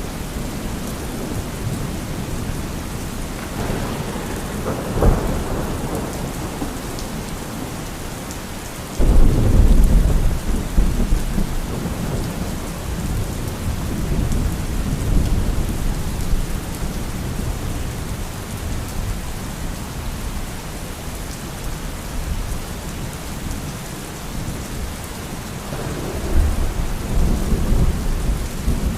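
Thunderstorm: steady heavy rain with thunder. A sharp crack comes about five seconds in, a loud low rumble breaks out suddenly about nine seconds in and rolls on for several seconds, and another rumble swells near the end.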